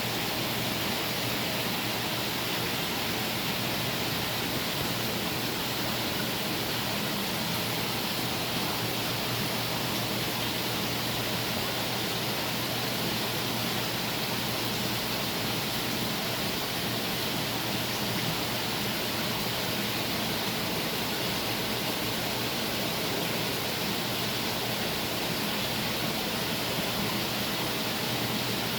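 Steady rushing water noise from a saltwater reef aquarium's circulation, with a constant low pump hum beneath it.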